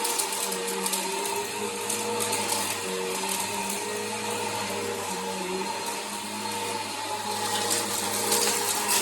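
Bissell PowerForce vacuum cleaner running steadily: a motor whine over a rushing hiss, with a scatter of crackles near the end.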